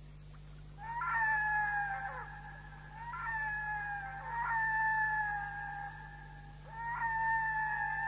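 A bird's long drawn-out calls, four in a row, each a held, slightly falling note that starts sharply. The first comes about a second in.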